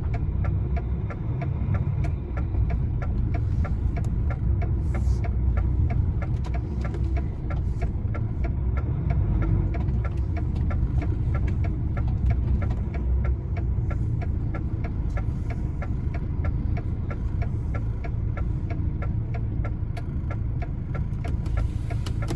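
Lorry's diesel engine running steadily, with a faint, even ticking running through it.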